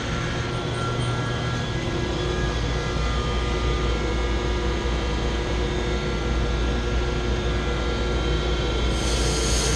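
Chiller's chilled water pump running steadily, with a strong low hum and a few steady tones, circulating water through the loop while air is bled from the line. A short hiss starts about nine seconds in.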